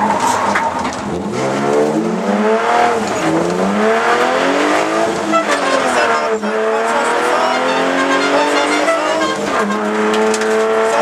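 BMW E30 rally car's engine, heard from inside the cabin, driven hard on a stage. The revs climb and drop again and again, falling sharply about three, five and a half, and nine and a half seconds in as the driver shifts or lifts off.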